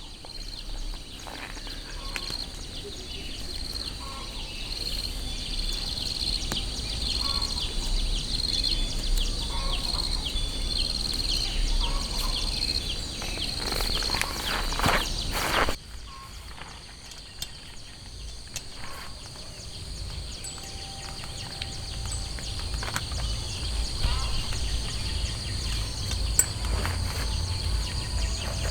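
Outdoor nature ambience: steady high-pitched chirping over scattered light ticks and a low rumble. It drops off abruptly a little past halfway, then builds back up.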